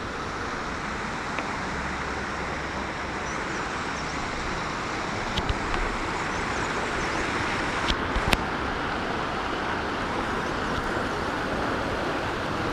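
Mountain river rushing: a steady noise of flowing water that grows a little louder, with a few sharp knocks about halfway through and again later.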